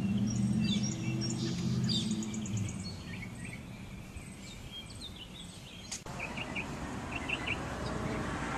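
Songbirds chirping and calling, many short overlapping notes and trills. A low steady hum sits under them for the first two or three seconds, then fades.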